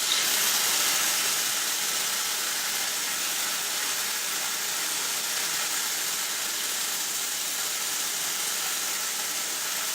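Espresso machine steam wand (steam arm) opened fully and blowing off a steady hiss of steam, purged empty so the milk residue on it softens.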